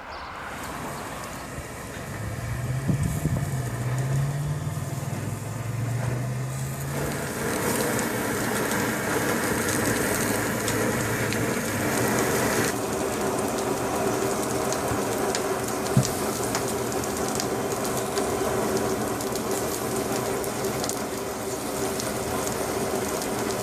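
Meat sizzling and a wood fire crackling over an asado grill: a steady hiss dotted with small pops. From about seven seconds in, a sustained hum of several steady tones joins it.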